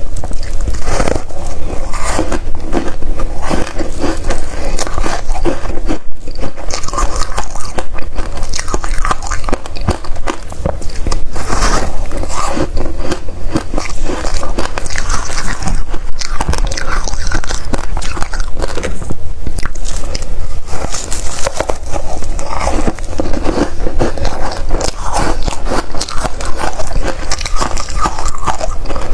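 Close-up biting and chewing of crunchy freezer frost, a steady run of loud crackling crunches with no pauses.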